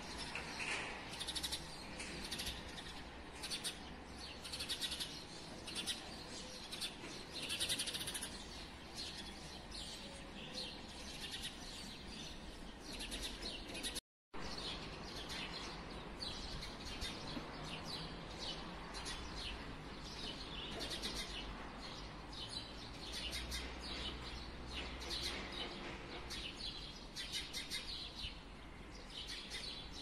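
Small birds chirping and twittering, many short high calls overlapping in quick succession. The sound breaks off for a moment about halfway, then the chirping carries on.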